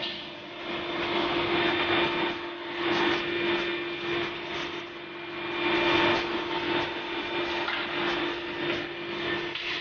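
Electric power tool motor running with a steady hum, under a rough hissing noise that swells and fades every second or two.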